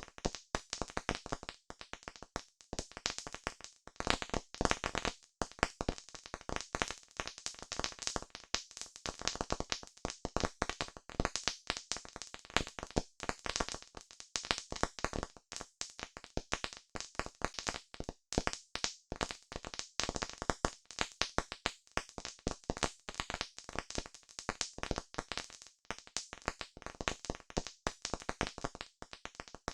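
Wood campfire crackling: a dense, irregular run of sharp pops and snaps, several each second.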